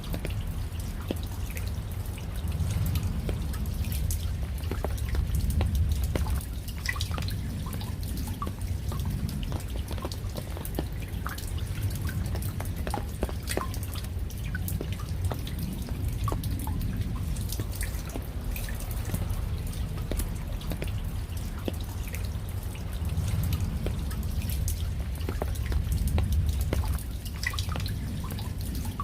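Raindrops falling, with many separate drips and ticks over a steady low rumble that swells twice.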